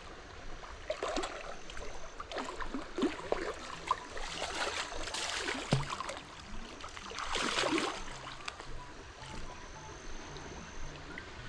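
River water in flood rushing and splashing, with several louder surges of splashing.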